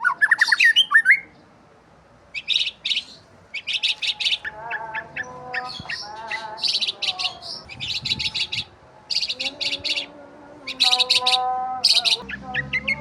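Birds chirping: bursts of rapid, high chirps mixed with shorter lower calls, loud at the start and then after a short pause about a second in.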